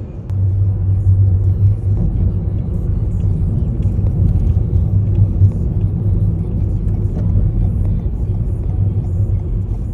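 Steady low rumble of a vehicle in motion, with a constant low drone.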